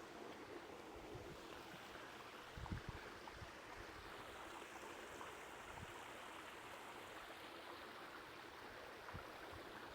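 Faint steady trickling of pool water at the surface, with one soft low thump about two and a half seconds in.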